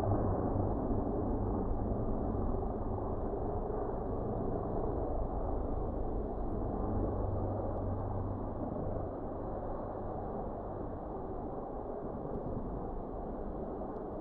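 Helicopter rotor and engine drone, a steady low sound that slowly fades.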